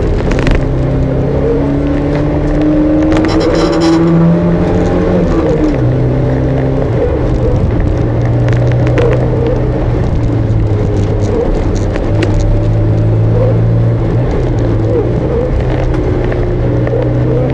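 Porsche 924 Cup's four-cylinder engine heard from inside the cabin, pulling hard up a hillclimb. The note rises through the revs and drops back at gear changes and for corners, several times over.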